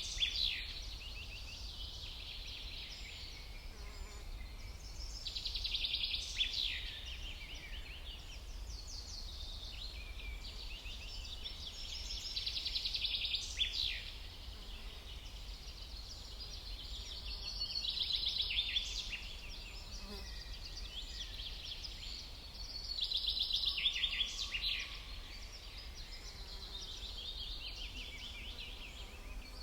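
Songbird singing short, fast trilled phrases, one every five or six seconds, over a steady low background rumble.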